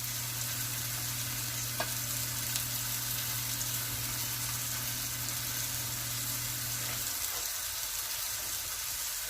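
Seared chuck roast sizzling in the hot pot, a steady hiss. A low hum under it stops about seven seconds in.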